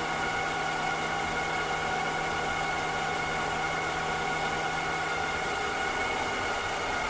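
Cleaning robot running steadily: an even hiss with several constant motor tones over it.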